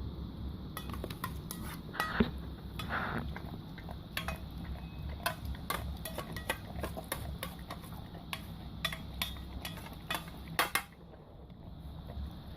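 German shepherds crunching hard snacks: irregular sharp cracks and clicks for about ten seconds that stop suddenly near the end, over a steady low rumble.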